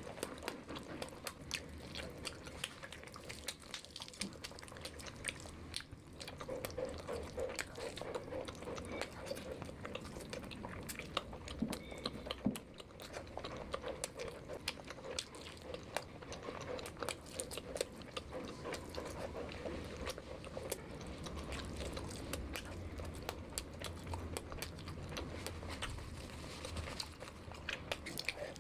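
Close-miked chewing and biting of food, with many small sharp crunches and mouth clicks in an uneven stream.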